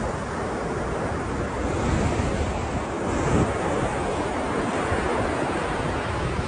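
Ocean waves breaking and washing on the shore in a steady rush, with wind buffeting the microphone and slight swells in loudness as waves come in.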